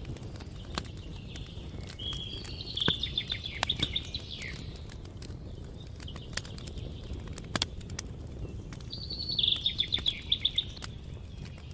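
A songbird sings two trilled phrases, one about two seconds in and another near the end, over the scattered sharp pops and crackles of a campfire and a low steady rumble.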